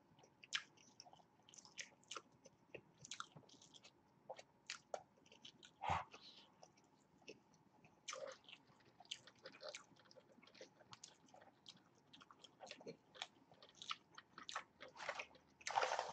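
People chewing food close to the microphone: faint, scattered crunches and wet mouth clicks. Near the end comes a louder, brief paper rustle as a red paper carton is tipped.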